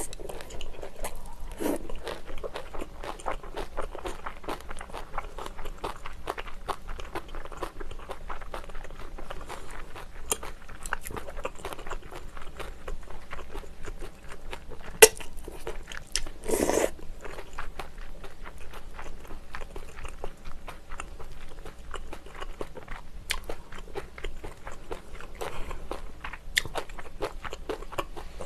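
Close-up sound of a person chewing mouthfuls of braised kimchi stew with pork: steady wet chewing, crunchy bites and small mouth clicks. A sharp click comes about halfway through, and a brief louder rush of noise follows shortly after.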